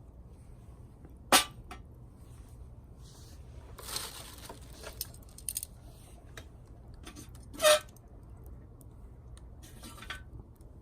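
Small hard objects being handled: two sharp clinks about six seconds apart, with lighter taps and brief rustling between.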